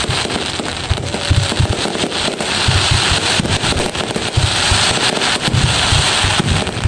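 Aerial fireworks display: a steady barrage of shell bursts, with many sharp bangs and crackling over frequent low booms.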